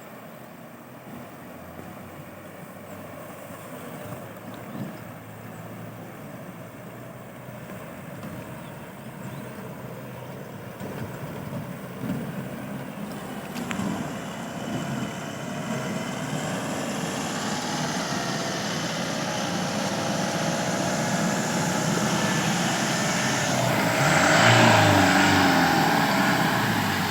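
A vehicle's diesel engine growing steadily louder as it comes closer, with a rise in revs about 25 seconds in.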